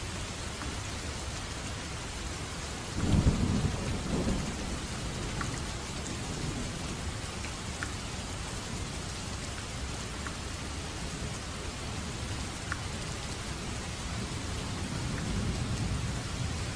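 Steady heavy rain with a sudden crack of thunder about three seconds in that rumbles away over a second or two, and a low rumble building near the end.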